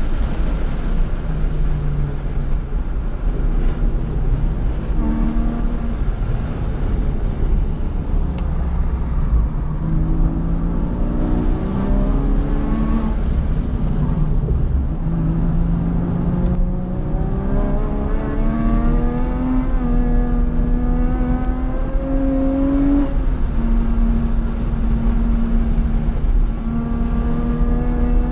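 Porsche 911 Carrera 2 (997) flat-six heard from inside the cabin at track pace. The engine note sits lower and changes as the car slows for a turn, then climbs steadily as it accelerates. About three-quarters of the way through it drops once, an upshift, then climbs again.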